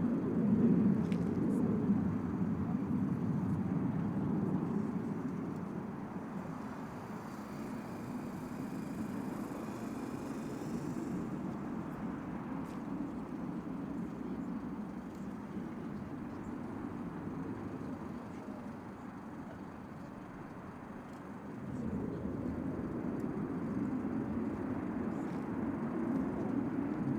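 Steady low rumble of open-air ambience that eases off after about five seconds and swells back up a little past twenty seconds, with a faint high hiss for a few seconds near the start.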